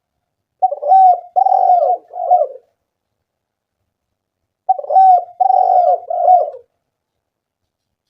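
Spotted dove cooing: two three-part coo phrases about four seconds apart, silent in between.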